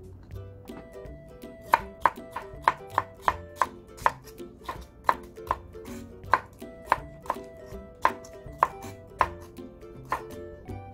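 Chef's knife slicing an orange bell pepper into thin strips on a wooden cutting board: a run of sharp knocks of the blade hitting the board, about three a second and unevenly spaced, starting about two seconds in.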